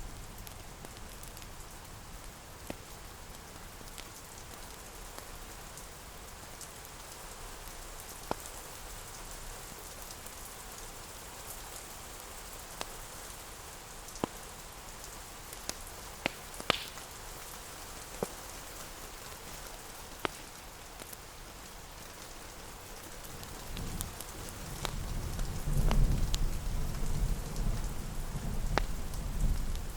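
Steady rain ambience with scattered sharp fireplace crackles. A deep rumble swells in the last few seconds.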